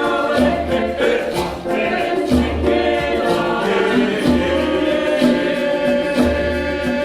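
Choir singing in several-part harmony, with regular sharp percussive hits and a low pulse coming back about every second or two.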